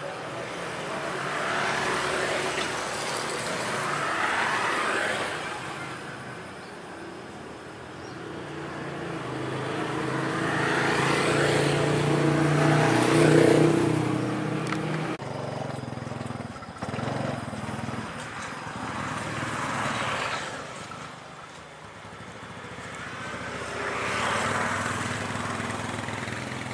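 Passenger train running past on the rails: rumbling wheel and rail noise that swells and fades several times. About halfway through the sound changes abruptly to that of a second train approaching behind a diesel locomotive.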